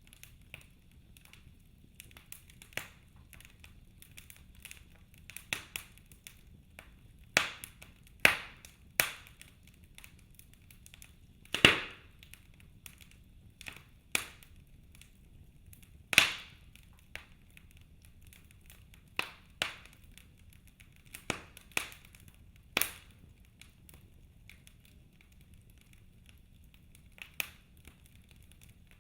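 Wood fire crackling in a fireplace: irregular sharp pops and snaps, a few of them much louder, over a faint low hiss.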